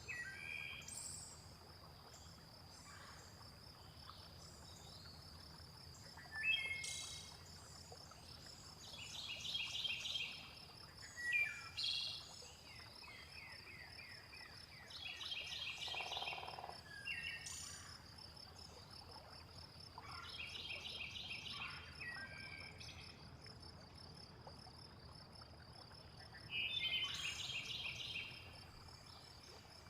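Layered nature soundscape: birds calling again and again in short chirps and trilled phrases over a steady high insect trill, with a brief lower croak-like call about sixteen seconds in.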